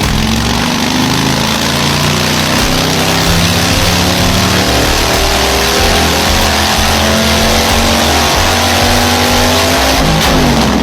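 Classic motorcycle engine revved and held at high revs, loud and raspy, with the revs falling away near the end.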